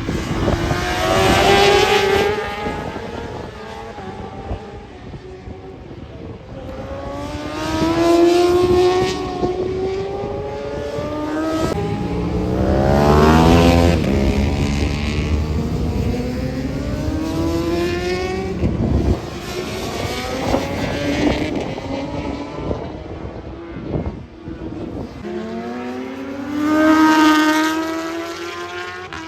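Racing motorcycles passing one after another at full throttle, engines revving up through the gears with a drop in pitch at each change. A bike goes by roughly every five to seven seconds, each rising to a loud peak and fading away.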